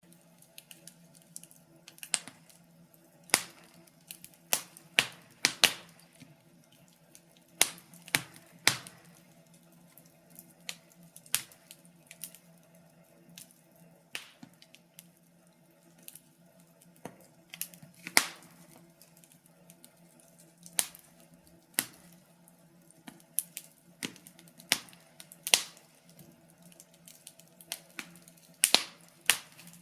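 Wood fire crackling: irregular sharp pops and snaps, sometimes two or three in quick succession, over a faint steady hum.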